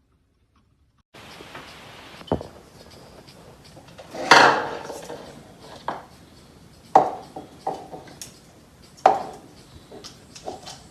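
Hard objects knocking and clattering on a surface: a click a little after two seconds in, then a loud clatter with a short ring about four seconds in, and sharp knocks about six, seven and nine seconds in.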